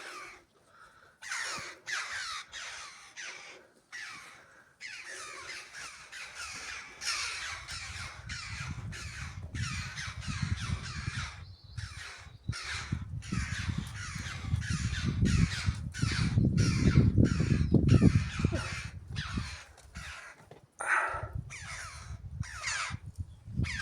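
A flock of birds giving repeated alarm calls, many overlapping with short breaks, as a warning at people too close to their home. A low rumble builds about a third of the way in, is loudest past the middle, and fades out shortly before the end.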